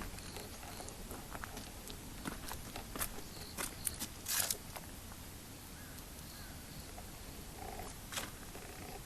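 Faint scattered clicks and light knocks, the loudest about three and a half and four and a half seconds in, with no engine running.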